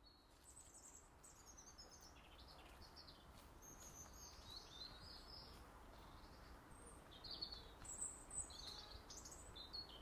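Faint songbird calls: many short chirps and warbles, a little louder near the end, over a low steady background noise, fading in gradually.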